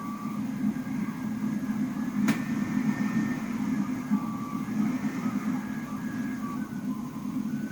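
Blizzard wind blowing steadily as a low rumble, with faint high tones that come and go and one sharp click a little over two seconds in.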